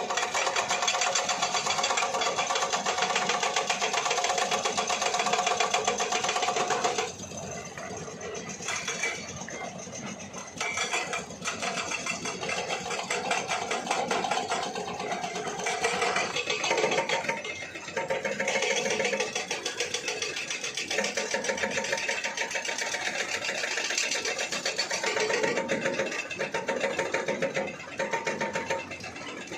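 An engine running with a fast, even chatter, louder for the first seven seconds, then quieter and rising and falling in level.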